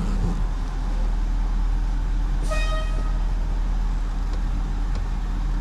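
Tow truck engine running steadily, with one short horn-like beep about two and a half seconds in.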